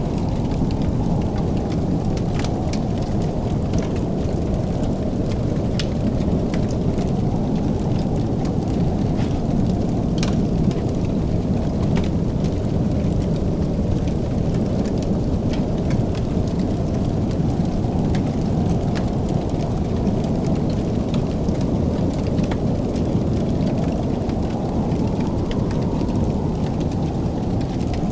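Fireplace wood fire crackling, with scattered sharp pops and snaps at irregular intervals over a steady low rumble.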